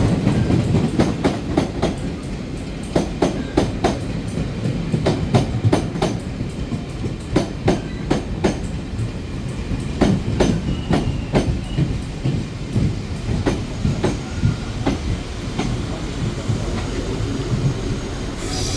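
Locomotive-hauled Chu-Kuang Express passenger train rolling slowly into the station, its wheels clacking over rail joints and points with a low rumble. A hiss starts just at the end.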